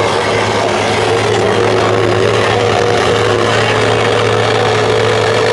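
Heavy truck's diesel engine running loud at a steady speed.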